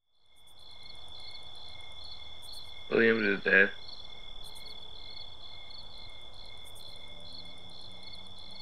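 Crickets chirping steadily: a constant high trill with pulses a few times a second. About three seconds in, a person's voice makes a short two-part utterance over it.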